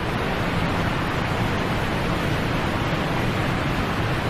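Steady rushing noise of wind and water on the open sea, with a gusty low rumble, beginning to fade near the end.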